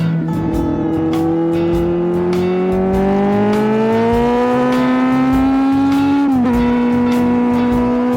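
Kawasaki Z750 inline-four engine through a de-catted LeoVince GT-Pro exhaust, pulling steadily up through the revs with a slowly rising pitch, then dropping sharply about six seconds in at a gear change and holding steady after.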